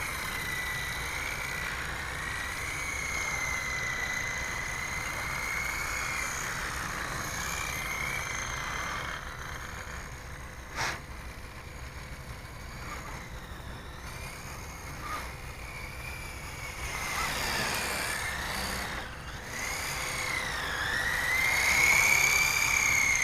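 Blade 180EFL electric RC helicopter in flight: the high whine of its small electric motors and counter-rotating rotors, wavering in pitch as it flies. The pitch dips, then climbs and grows louder near the end, with one sharp tick partway through.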